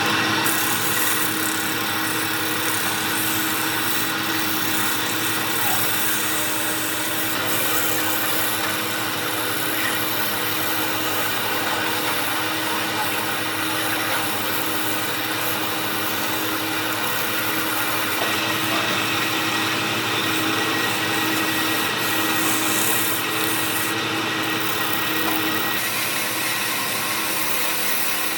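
Wood lathe running steadily, with a tool or abrasive rubbing against the spinning wood-and-epoxy blank: a constant motor hum under a continuous scraping hiss.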